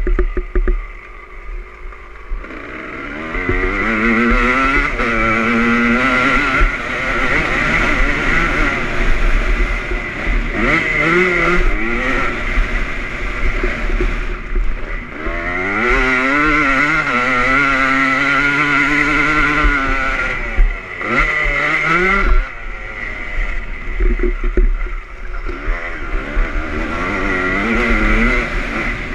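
2001 Honda CR250 two-stroke motocross engine revving up and down as the bike is ridden on a dirt track, its pitch climbing and dropping again and again. It is quieter for the first couple of seconds, then revs hard.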